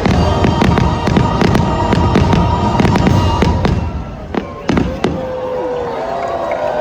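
Fireworks bursting and crackling in rapid succession, the barrage thinning out about four seconds in.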